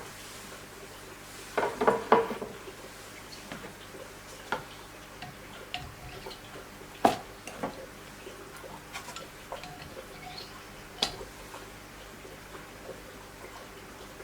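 Clicks and clinks of hard metal parts being handled on a knife-sharpening rig: a quick cluster about two seconds in, light ticks, then single sharp clicks about seven and eleven seconds in.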